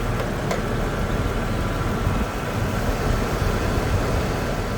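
A 2008 Saturn Vue's engine idling steadily with the air conditioning running while its refrigerant is being recharged. A brief click about half a second in.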